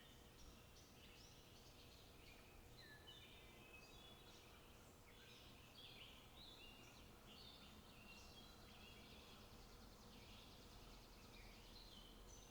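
Faint chirping and short trills of several small birds, calling over one another continuously, over a low steady outdoor rumble.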